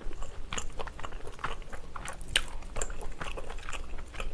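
Close-miked chewing of a mouthful of stir-fried sundae and pork tripe with glass noodles: an irregular run of short mouth clicks and crunches.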